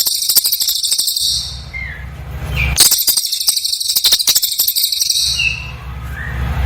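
Cililin bird singing in two fast, dense bursts of high, rapid chattering, each about a second and a half long, with a pause between them. A few short whistled notes sound in the gaps over a low steady rumble.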